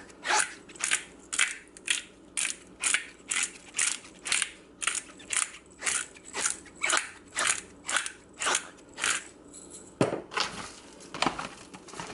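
Hand-twisted spice grinder grinding coarse salt and pepper, a crunchy ratcheting grind about twice a second, some eighteen twists in a row. Near the end a single knock, then a few looser, uneven grinding strokes.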